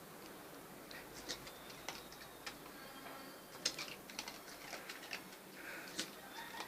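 A dog snapping its jaws at the air: irregular sharp clicks and ticks of its teeth meeting, a dozen or so at uneven intervals, the loudest about four and six seconds in.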